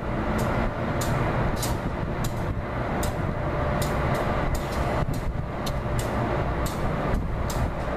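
Steady rumble of a slow-moving locomotive working through a rail yard, with sharp clicks a few times a second.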